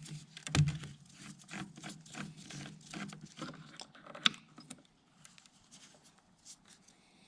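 Irregular light clicks, taps and scrapes of hands working a brake fluid bottle and reservoir cap while topping off a brake fluid reservoir; one sharper click about four seconds in, then it goes quieter.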